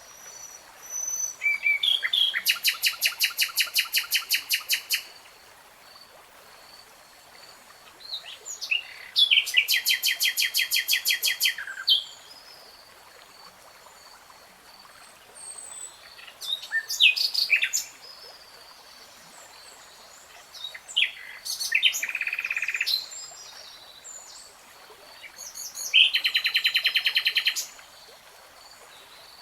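A songbird singing in five separate phrases a few seconds apart, several of them fast runs of rapidly repeated notes. A faint, steady high tone runs underneath.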